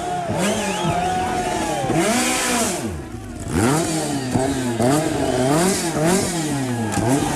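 Group B-era rally car engine at full throttle, its pitch climbing and dropping again and again as the driver works the throttle and gears through a stage, with a brief dip in level about three seconds in.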